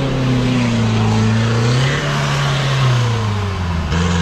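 A 4x4 off-road vehicle's engine revving, its pitch rising and falling, with a dip near the end.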